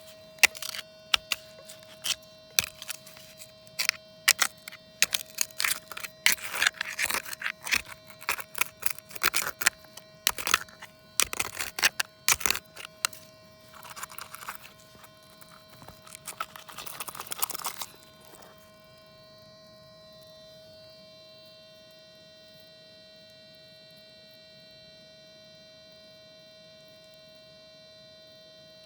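Rapid irregular clicks and knocks with bursts of scraping, over a steady hum with a single high tone; the clicking stops about eighteen seconds in, leaving only the steady hum.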